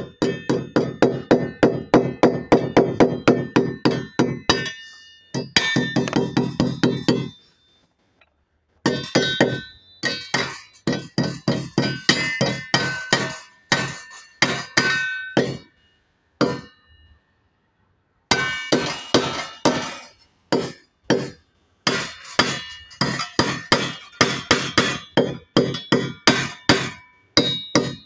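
Hammer blows driving anchor bolts into a concrete wall, in fast runs of about three to four strikes a second with a metallic ring on each blow. The hammering pauses briefly about seven seconds in and again about sixteen seconds in.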